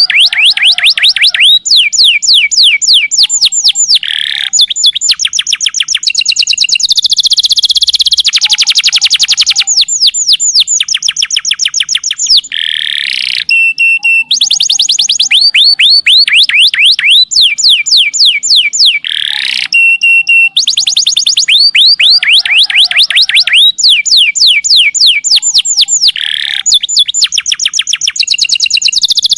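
Domestic canary singing continuously in long, fast trills of rapidly repeated high notes, broken by quick rising sweeps and a few brief held whistles.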